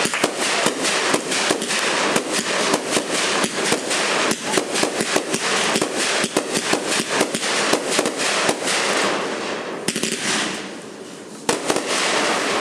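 Fireworks going off in a rapid, continuous string of sharp pops and crackles, thinning out about nine seconds in, then a fresh burst of pops near the end.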